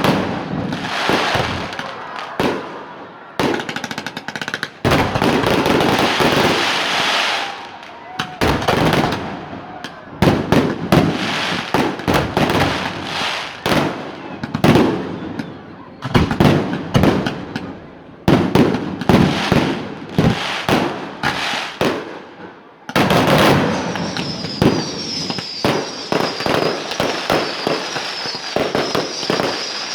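Fireworks display: dense, rapid bangs and crackling from exploding shells, coming in clusters with short lulls between them, and a wavering high whistle through the last several seconds.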